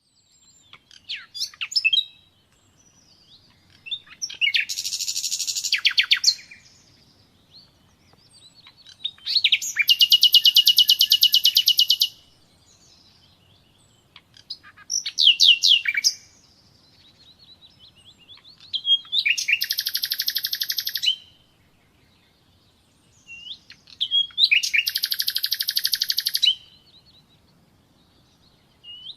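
Common nightingale singing: about five phrases, each a fast, rapidly pulsed trill with quick whistled notes before it, separated by pauses of a couple of seconds.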